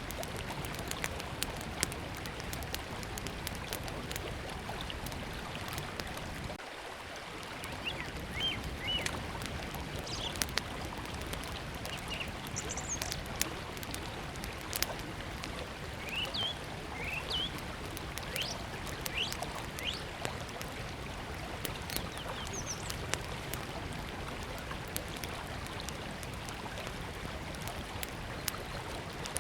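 Steady rush of river water, with a small wood fire crackling and popping in sharp clicks throughout. A small bird chirps in short, quick notes on and off through the middle.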